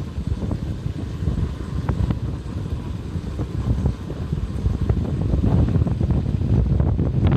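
Vehicle driving along a mountain road, a low uneven rumble with wind buffeting the microphone, growing louder about five seconds in.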